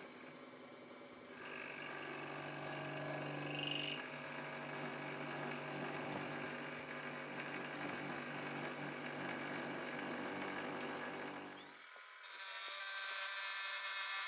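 Metal lathe running while turning the taper on a model-engine connecting rod blank, a steady motor hum with several held tones under the noise of the cut. The sound grows louder about a second and a half in, gives a brief high squeal near four seconds, and changes about twelve seconds in when the low hum drops away.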